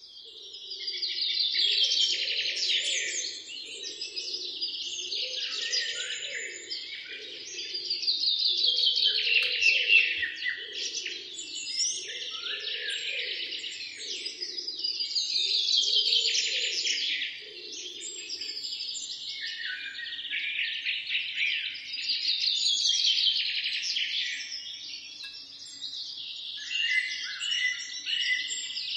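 Birdsong: fast trilling and chirping bird calls in loud phrases that come back about every six or seven seconds, with a fainter low pulsing sound beneath them for the first two-thirds.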